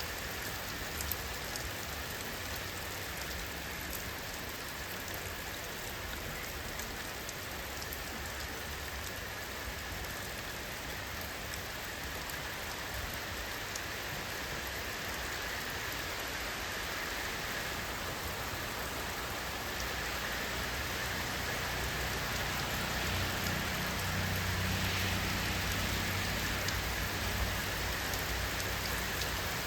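Steady rainfall: an even hiss with scattered drop taps. A low rumble swells in about two-thirds of the way through.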